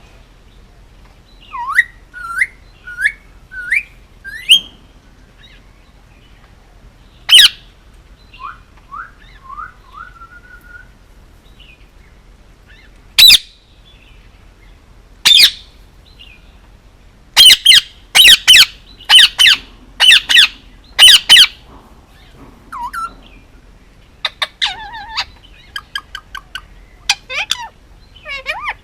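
Male Indian ringneck parakeet calling: a few short rising chirps, then loud, harsh single squawks, a quick run of about eight loud squawks in the middle, and softer rapid chatter near the end.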